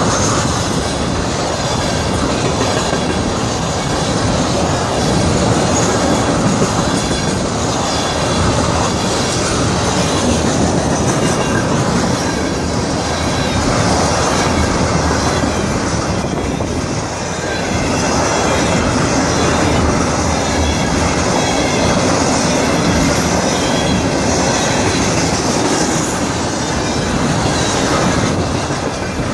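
Freight train of ethanol tank cars rolling steadily past a grade crossing: the continuous rumble and clatter of steel wheels on the rails.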